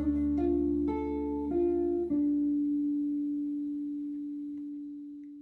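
Closing notes of the hymn's instrumental accompaniment: four single notes about half a second apart, then a last low note ringing on and fading away.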